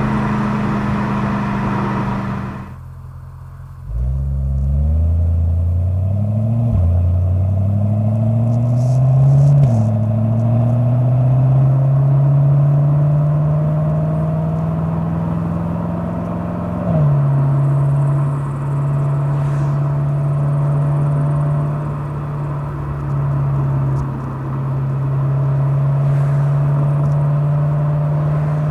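BMW E92 M3's S65 4.0-litre V8 with an M Performance exhaust, heard from outside the car: after a short quieter dip near the start, it pulls away and accelerates, its note rising and dropping back at three upshifts, then runs at steady revs.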